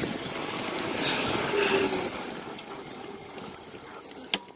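Wind noise on the microphone, then a steady high-pitched squeal for about two seconds, cut off by a sharp click near the end.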